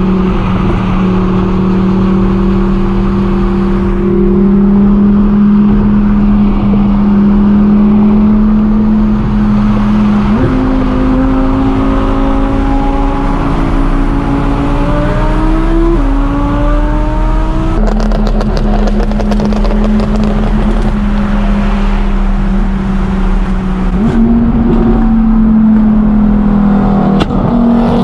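Car engine running hard at steady high revs, its pitch held for seconds at a time and stepping up and down several times. A short run of sharp crackles comes about 18 seconds in.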